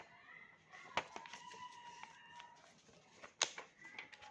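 Paper being handled and creased by hand, with two sharp taps, about a second in and near the end. A faint steady high tone with overtones is held for about a second and a half between them.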